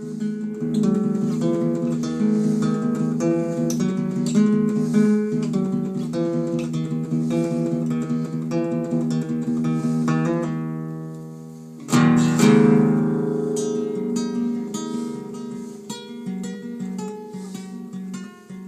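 Acoustic guitar strummed in a steady rhythm. About ten seconds in, a chord is left to ring and fade, then a loud strum starts the pattern again.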